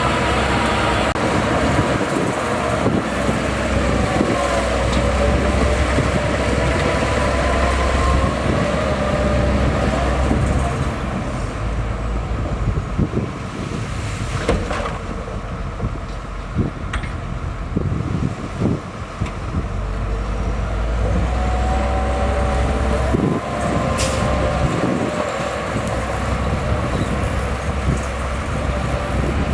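Crawler bulldozer's diesel engine running under load, its pitch rising and falling as it works, with a deep rumble that swells and eases. Short clanks and knocks come in the second half.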